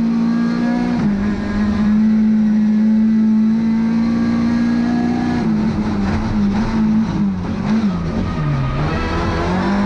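Race-prepared Lada 2101's tuned four-cylinder engine at high revs, heard from inside the cabin. Its pitch steps down briefly about a second in, then holds level for several seconds. From about halfway the note wavers and falls as the car brakes hard for a bend.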